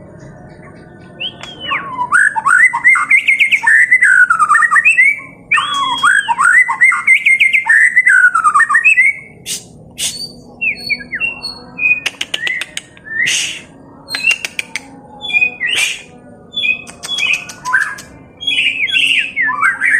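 White-rumped shama (murai batu) singing its fighting-style song: two long, loud phrases of rapid, varied whistled notes, then shorter broken notes mixed with sharp clicks.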